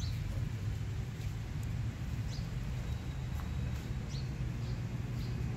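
Small birds chirping: about five short, high chirps spread over a steady low rumble.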